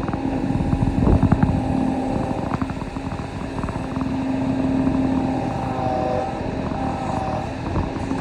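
Kobelco SK35 excavator's diesel engine running steadily, with a hydraulic whine that steps up and down in pitch as the machine works. A few short knocks come through, mostly in the first half.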